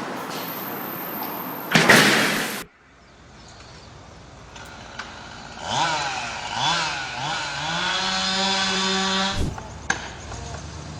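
A loud burst of noise about two seconds in, then after a quiet gap a small engine revved up and down three times and held at high revs for about two seconds before it cuts off suddenly.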